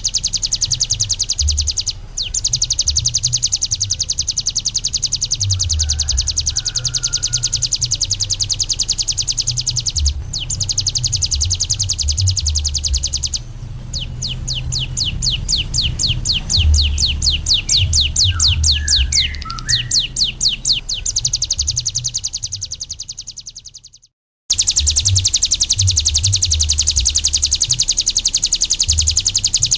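Bar-winged prinia (ciblek gunung) singing: a long, very fast, buzzing trill of high notes. Midway it slows into a run of separate notes for several seconds, then fades out and breaks off briefly before the fast trill starts again.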